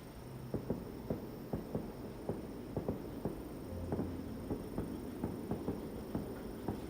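Footsteps: a run of light, irregular taps, about two or three a second, over a steady low background hum.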